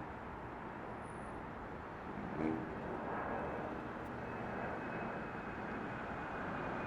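Jet aircraft engine noise at an airport: a steady broad rush that slowly builds, with a faint high engine whine coming in about halfway through. A brief pitched sound stands out about two and a half seconds in.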